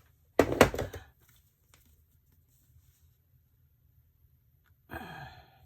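A quick cluster of sharp knocks and clicks from objects handled on a work surface, then a person's breathy sigh near the end.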